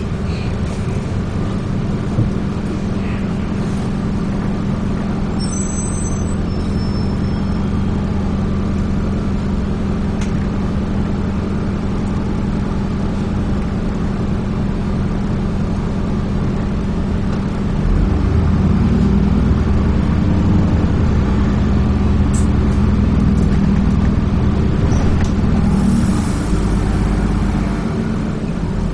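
Dennis Trident 2 double-decker bus running under way, heard from on board as a steady engine drone. About eighteen seconds in, the engine grows louder and deeper for several seconds as it works harder. A short high hiss comes near the end.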